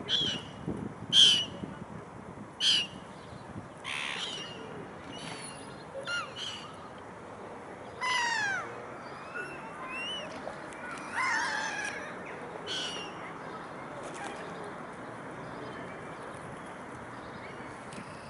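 Birds calling over steady outdoor background noise: a run of short, sharp calls in the first few seconds, then two longer calls that fall in pitch around the middle, with fainter calls later on.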